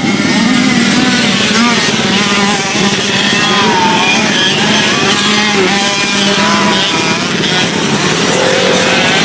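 Several 50cc two-stroke dirt bike engines, among them a KTM 50 SX, revving high with their pitches rising and falling as the riders work the throttle over the jumps.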